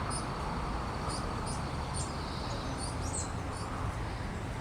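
Small birds chirping: short high calls repeating about every half second over a steady low background rumble.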